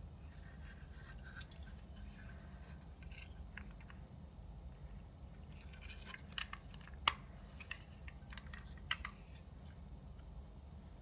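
Faint scattered clicks and scrapes of small parts being handled during repair work, with a sharp click about seven seconds in, over a low steady hum.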